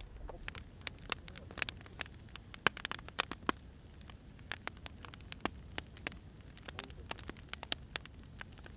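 Firewood burning, with irregular sharp crackles and pops from the wood over a steady low rumble of the flames.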